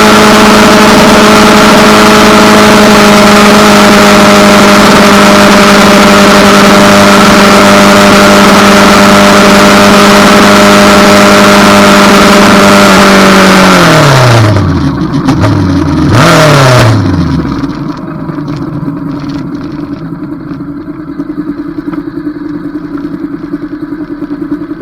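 Motorcycle engine holding a steady note at cruising speed under heavy wind noise on the microphone. About fourteen seconds in, the engine pitch drops in two falling sweeps, with a brief rise between them, as the bike slows and shifts down. It then settles to a quieter, low idle.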